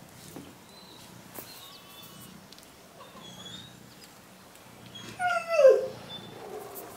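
A dog whines once about five seconds in, a loud call falling in pitch, with faint short chirps before it.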